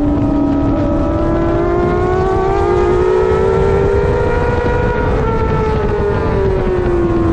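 Middleweight superbike engine running at high revs, its pitch climbing steadily for about four seconds and then falling back, with wind rush underneath.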